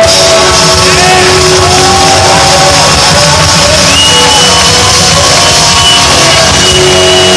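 Live blues-rock band playing loudly, with a crowd shouting over it. A high held note comes in about halfway through and bends down at the end.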